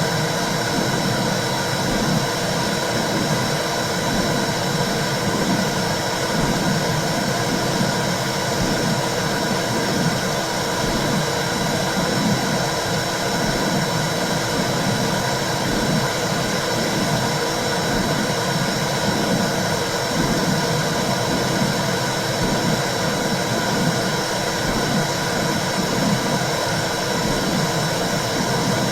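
Womb sound for calming babies: a steady whooshing noise with low, rhythmic swells about every couple of seconds.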